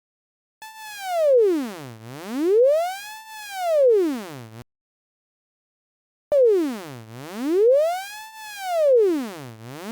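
Computer-synthesized tone sonifying a wave-shaped function's graph: the pitch swoops smoothly down and back up about three times, loudest on the steep parts of each slide, where the slope sets the volume. It plays twice, with a silent gap of about a second and a half after the first run.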